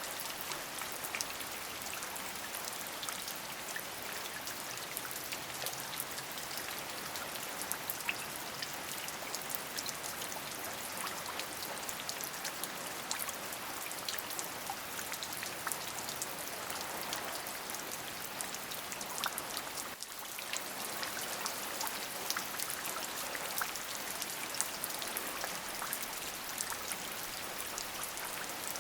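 Steady rain, a dense even hiss sprinkled with many small ticks of individual drops landing. It dips briefly about two-thirds of the way through.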